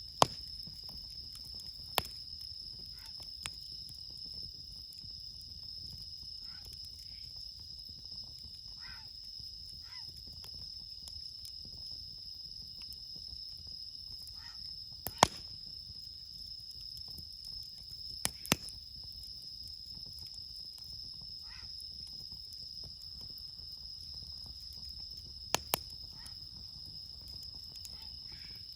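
Night insects chirring in a steady high-pitched drone, over a wood campfire that cracks and pops sharply now and then, loudest about halfway through and twice in quick succession a little later.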